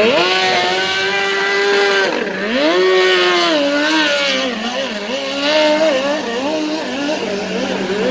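Vintage race boat's engine revving up, holding, dropping off about two seconds in and climbing again, then wavering up and down in pitch, with a steady lower engine tone running underneath.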